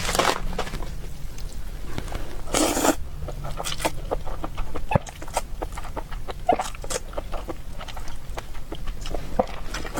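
Close-miked eating of glass noodles in oyster sauce and sesame paste: wet mouth clicks and chewing throughout, with one longer slurp just before the three-second mark.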